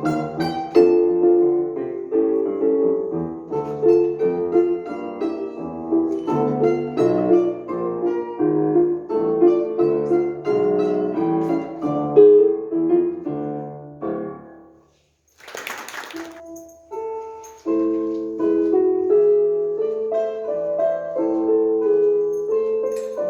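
Piano playing a classical-style piece, a melody over chords. About fifteen seconds in, the playing stops for a moment, a short burst of noise is heard, and then the piano carries on.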